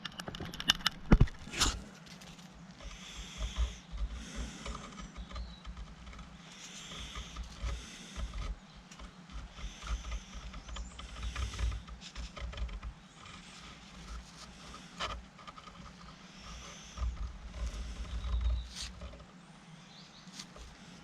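Metal pump part being slid around in a figure-eight over a flat metal plate during measurement: irregular scraping and rubbing, with a few sharp clicks in the first two seconds.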